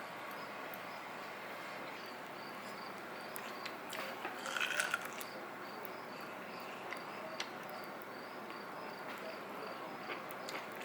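Crickets chirping in a steady, even run of high pulses. A brief louder call comes about halfway through.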